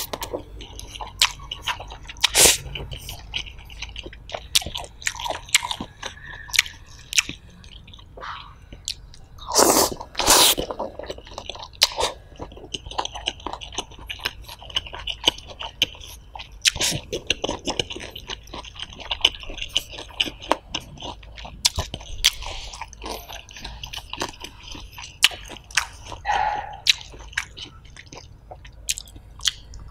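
Close-miked chewing of fried noodles with vegetables: wet mouth sounds and many sharp clicks, with a couple of louder noisy bursts about ten seconds in.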